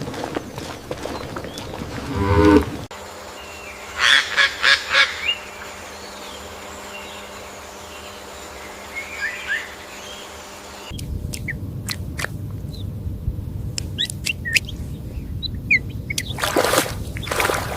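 A cow mooing once, about two seconds in, followed by abrupt cuts to other short recordings that hold a steady hum, brief bursts of sound and clicks.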